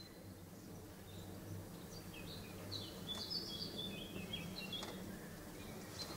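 A bird chirping faintly: a cluster of short high notes that jump in pitch, about two to five seconds in, over a low steady hum.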